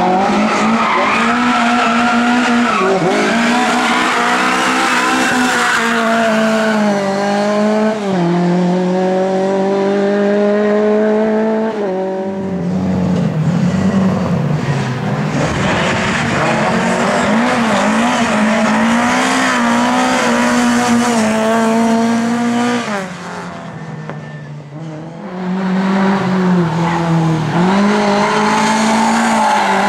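Lada race car engine at full throttle, its pitch climbing through the revs and dropping sharply at each gear change. It eases off for a couple of seconds near the end, then pulls hard again.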